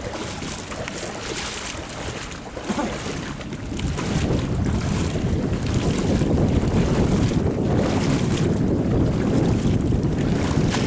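Wind buffeting the microphone: a steady rumbling noise with no pitch, growing louder about four seconds in.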